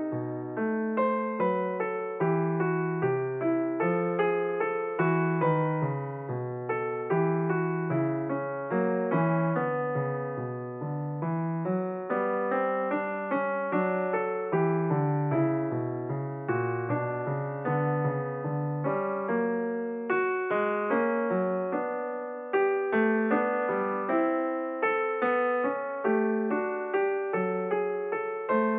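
Solo piano background music: a continuous melody of struck notes that ring and fade, at an even, gentle pace.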